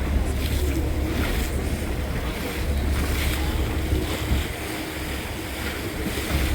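Boat's engine running with a steady low hum, wind buffeting the microphone and waves washing around the hull. The wind rumble eases for a moment past the middle.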